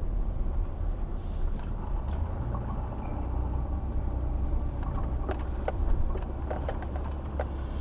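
Steady low rumble of a moving vehicle, road and engine noise, with a few faint ticks and clicks.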